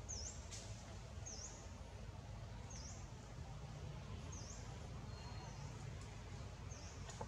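A bird calling: five short, very high chirps, each dipping and rising in pitch, about one every second and a half with a longer gap near the end, over steady low outdoor background noise.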